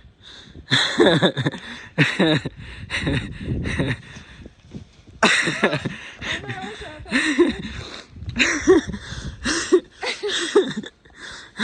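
Several people laughing and shrieking in short, breathy bursts with pitch sliding up and down.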